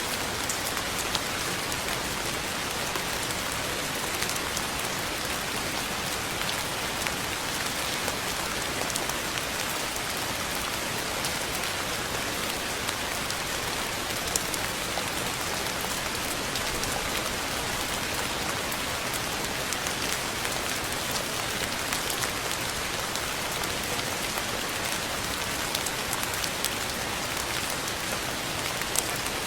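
Steady rainfall, an even hiss of rain with scattered individual drop ticks standing out now and then.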